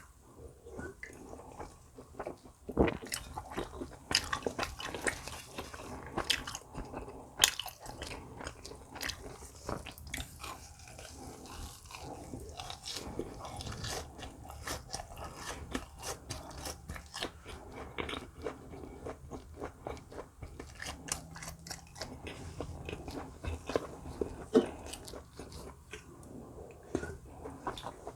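A person biting and chewing food close to the microphone, with many small, irregular crunches and clicks.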